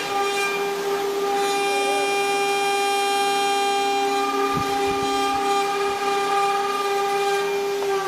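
ATC CNC engraving machine's spindle running at a steady high speed: a constant high whine with many overtones.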